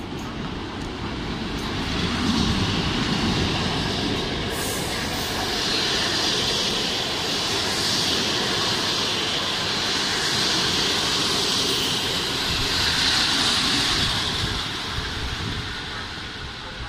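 Passenger train hauled by an electric locomotive rolling past along the station platform, wheels rumbling on the rails with a high hiss. It grows louder about two seconds in, stays loud while the coaches pass, and eases off near the end as the last coach draws away.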